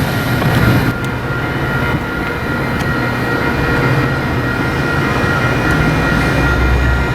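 Metra diesel locomotive running, a steady low engine drone with a steady high whine over it; a deeper rumble swells near the end.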